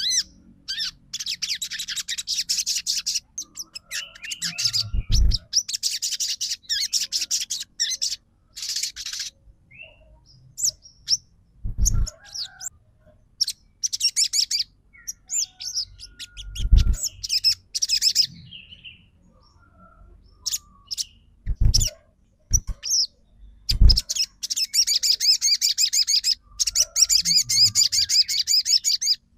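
Sunbird singing a rapid, high trilling song in repeated bouts of a second or two, with short chirps between them; a few dull knocks are heard among the song.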